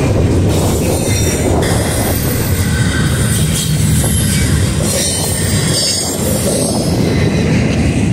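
Double-stack intermodal freight train's well cars rolling past close by: a loud, steady rumble of steel wheels on rail, with high-pitched wheel squeal coming and going over it.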